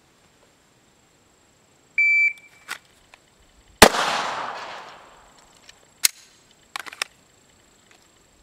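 A short electronic beep, then about two seconds later a single shot from a 9mm Glock pistol that echoes and dies away over about a second and a half. A few sharp clicks follow.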